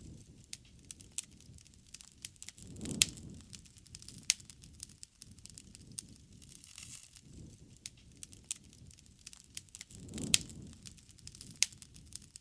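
Wood fire burning, with irregular sharp crackles and pops over a low rumbling hiss of flames; the flames swell twice, with the loudest pops about 3 and 10 seconds in.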